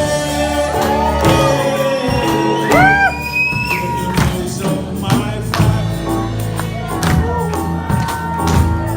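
Gospel music: a band with tambourine playing under a singer's long, gliding sung notes.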